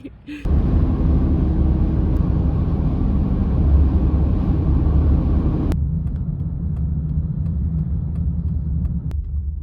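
Steady low rumble of a car driving, heard from inside the cabin. A broad hiss over it cuts off abruptly about six seconds in, leaving the low rumble with a few faint ticks.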